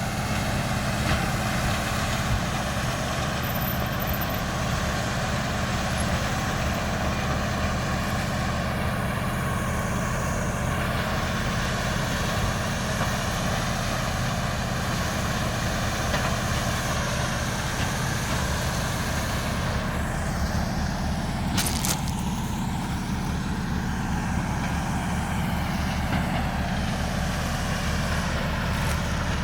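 Heavy diesel engine of road-repair machinery running steadily at a constant speed, with a short hiss about three-quarters of the way through.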